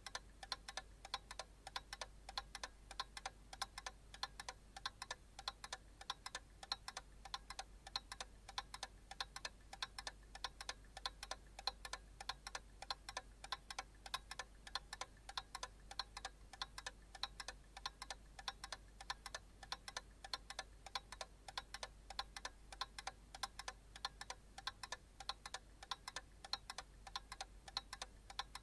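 Clock ticking fast and evenly, several ticks a second, over a steady low hum.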